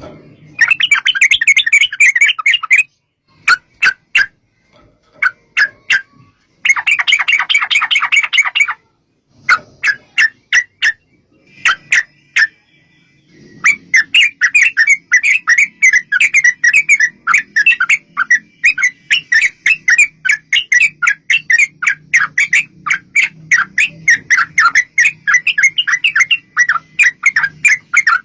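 Yellow-vented bulbuls singing the rapid chattering 'ropel' trill: two short dense bursts, separate sharp single notes between them, then one long unbroken run of fast notes from about halfway through.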